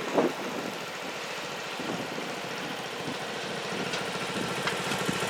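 Sears Suburban garden tractor engine idling steadily, getting a little louder near the end.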